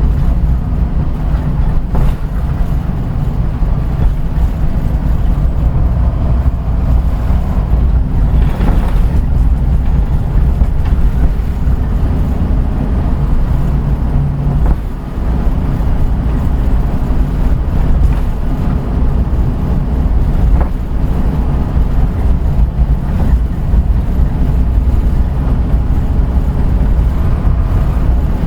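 Route bus running, heard from on board: a steady low engine drone with road noise. The level dips briefly about halfway through as the engine eases off.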